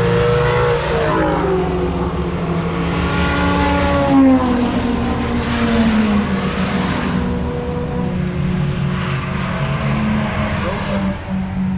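Car engines at a race track: a steady engine drone, with engine notes gliding down in pitch about a second in and again from about three to six seconds in, as cars pass or slow.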